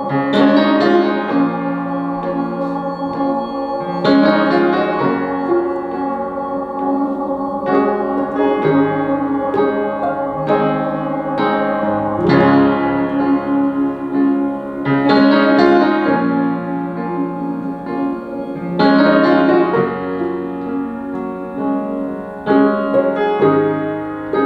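Piano playing an instrumental passage of slow chords, a new chord struck every few seconds and left to ring.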